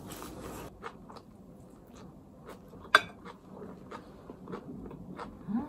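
Close-up mouth sounds of someone biting and chewing a grilled slice of bread, with small clicks of cutlery and dishes. One sharp click about three seconds in.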